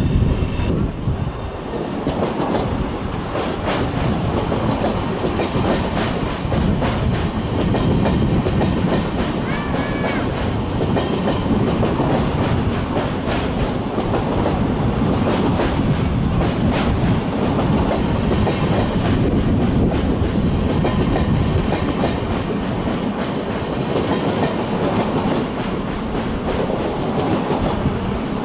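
Rhein-Ruhr-Express Siemens Desiro HC electric train running past at close range: steady wheel-on-rail noise with repeated clicks as the wheels cross the rail joints.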